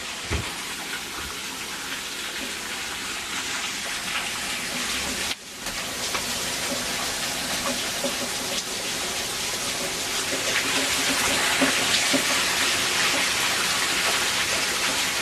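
Steady rushing of water, heard as an even hiss that grows slightly louder, with a brief break about five seconds in.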